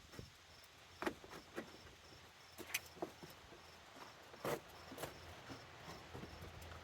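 Irregular knocks and clicks from work inside a pickup cab, the loudest about a second in and about four and a half seconds in, over a faint high chirp repeating about three times a second.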